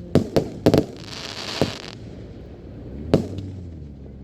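Fireworks shells bursting: about six sharp bangs, most of them in the first two seconds and one more near three seconds, with a hissing crackle from a burst around one to two seconds in.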